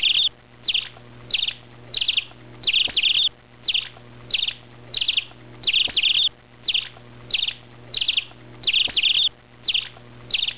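A bird calling over and over, short high chirps about three every two seconds, some coming in quick pairs, over a faint steady low hum.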